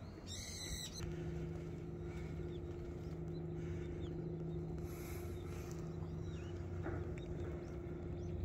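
Faint bird chirps over a steady low hum that sets in about a second in, with a brief high-pitched noise just at the start.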